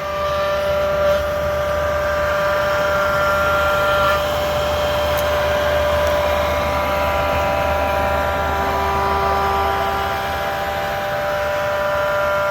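Chinese diesel air heater running with worn bearings: a steady whine of several high tones over a low hum, the sound of bearings going bad. A few of the higher tones drop out about four seconds in.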